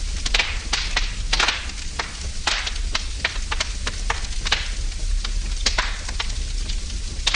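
Wood fire burning in a fireplace, crackling and popping irregularly, a few louder snaps among many small crackles, over a steady low hum.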